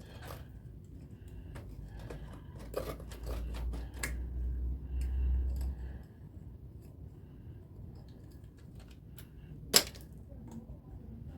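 Scattered light clicks and handling knocks, with a low rumble for a few seconds in the middle and one loud sharp snap near the end.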